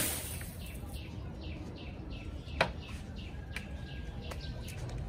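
A bird calling repeatedly: short, high, falling chirps about two to three a second, with one sharp click about halfway through.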